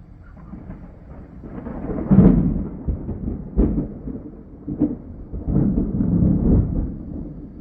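Thunder: a low rumble builds to a loud clap about two seconds in, followed by two sharper cracks and a long rolling rumble near the end.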